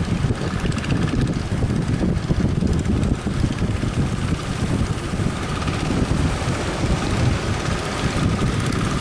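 Strong wind buffeting the microphone in a steady low rumble, with fishing-boat engines running faintly underneath; a faint steady whine comes in about halfway through.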